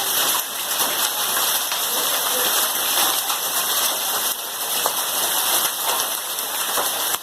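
Very heavy rain with hail pouring down: a loud, steady, dense hiss with scattered sharper hits.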